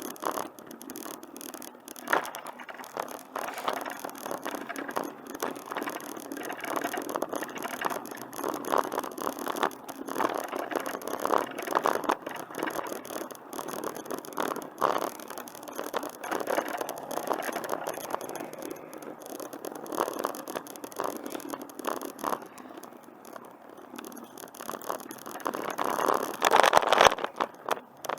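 A bicycle rattling and clattering as it rolls along the trail, with dense irregular clicks and knocks over tyre noise. The rattling gets louder near the end.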